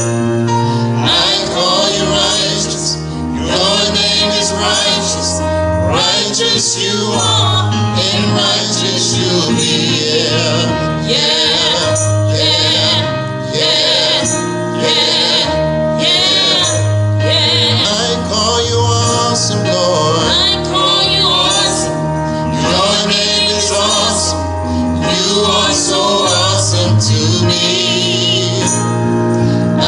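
Gospel choir singing with instrumental accompaniment, a steady bass line under the voices.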